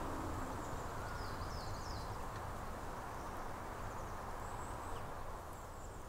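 Woodland ambience: a steady, even hiss of outdoor air with faint, high chirps, a few about a second or two in and a few more near five seconds. The tail of a music track fades out at the very start.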